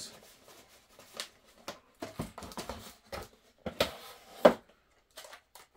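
Cardboard box and plastic packaging being handled as a small toy RC car is taken out: scattered rustles and clicks, with one sharper knock about four and a half seconds in.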